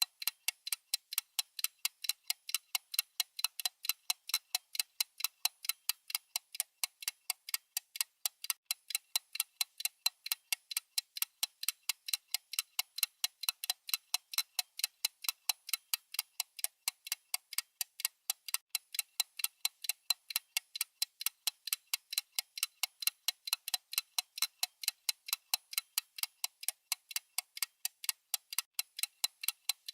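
Clock-style ticking sound effect of a countdown timer: a steady, even run of short, bright ticks, several a second, with no variation.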